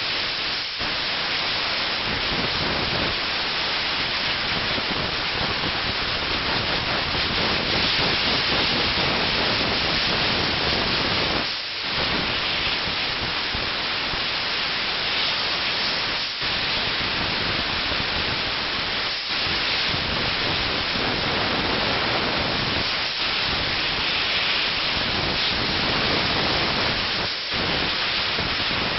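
Steam car-wash machine's nozzle jetting steam in a steady loud hiss, dipping briefly a few times.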